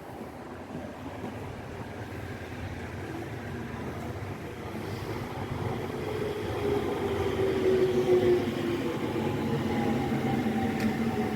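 Electric train approaching and passing on the line, growing steadily louder to a peak about eight seconds in. A faint whine drops slowly in pitch over the rumble of the wheels.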